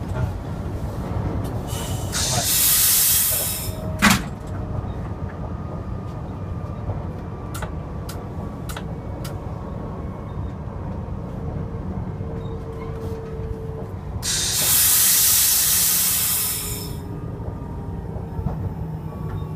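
Electric train running on the rails, heard inside the driver's cab as a steady low rumble. Two loud bursts of compressed-air hiss break in, one of about two seconds near the start and one of about three seconds two-thirds of the way through, with a sharp click about four seconds in.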